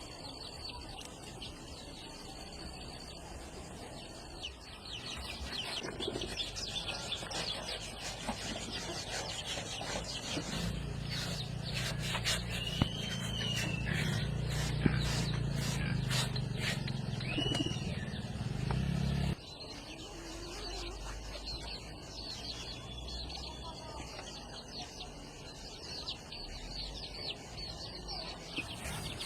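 Small birds chirping now and then. A low steady hum comes in about ten seconds in and cuts off suddenly some nine seconds later.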